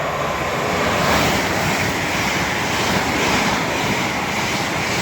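Model train running on the layout's track close to the microphone: a steady, loud rumbling noise of wheels and motor that builds up over the first second and then holds.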